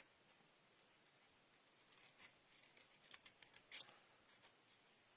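Small scissors snipping into paper card: a few short, quiet snips about two to four seconds in.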